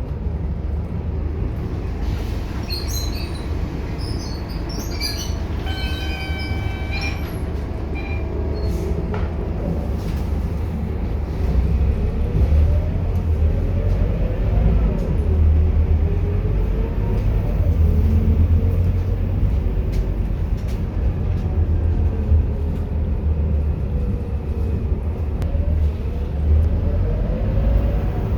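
Scania K230UB single-deck bus running, a heavy low rumble with a whine that rises and falls repeatedly as it pulls away and changes gear. A few short high-pitched beeps and chirps come about three to eight seconds in.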